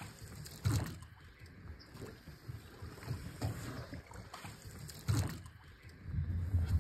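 Water splashing around a small boat moving on the river, with dull knocks a few times and low rumbling, loudest twice and again near the end.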